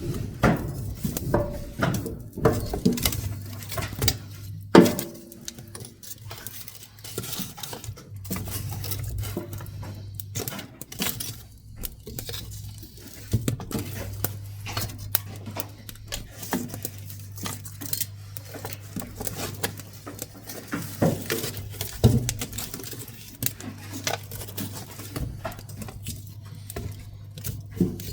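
Pine woodworking offcuts burning in a wood stove, crackling and popping irregularly, with a few louder pops over a steady low hum.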